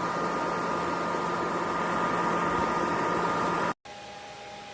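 Hair dryer blowing into a soft bonnet hood attachment, a steady rushing hiss with a faint even whine. Near the end it cuts off abruptly to a quieter, steady hum.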